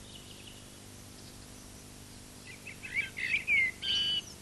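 Songbirds chirping outdoors: a few quick gliding chirps about two and a half seconds in, then a short held whistle near the end, over a faint steady hum.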